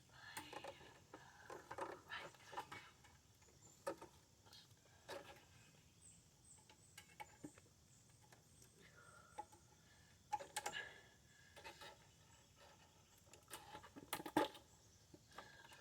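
Faint, scattered clicks and taps of hand-tool work on a lawn mower, with a few louder knocks around two-thirds of the way in and near the end.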